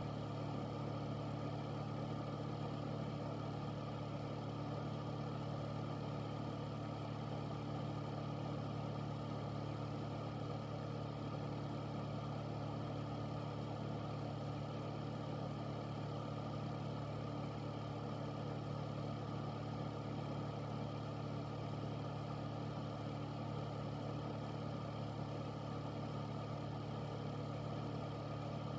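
Air filter (air purifier) fan running steadily: an even rush of air over a low hum with a few steady tones, unchanging throughout.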